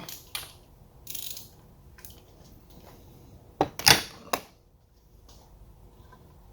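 Hand tools and loose bolts being handled during engine work: a few short scrapes, then a quick cluster of sharp metallic clicks about four seconds in.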